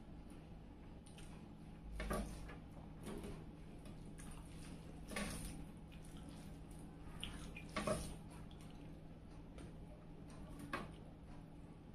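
Close, wet eating sounds of a person chewing a mouthful of rice: soft chewing with a few sharp lip smacks a second or more apart, the loudest about eight seconds in.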